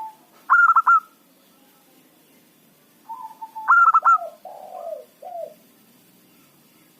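Zebra dove (perkutut) cooing in two staccato phrases of quick, clear notes, about half a second in and again about three seconds in. The second phrase ends in lower, falling notes.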